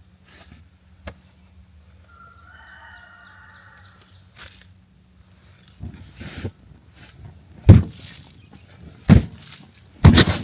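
Three heavy, low thumps about a second and a half apart, the last and loudest near the end, as ignited starting-fluid vapour inside a skid steer tire blows the bead out onto the rim. A faint chirping comes a couple of seconds in.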